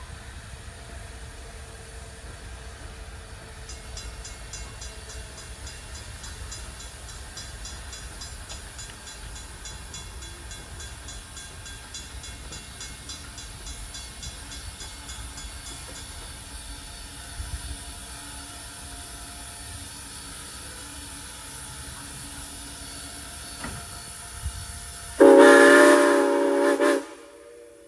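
Steam locomotive Norfolk and Western 475, a 4-8-0, with a steady low rumble, then one loud whistle blast of several steady tones near the end, lasting under two seconds and cutting off sharply.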